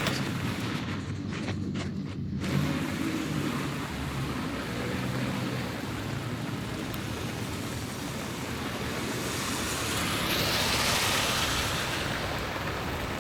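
Steady outdoor street noise on a rainy day with a low traffic rumble, and a louder hissing swell about ten seconds in.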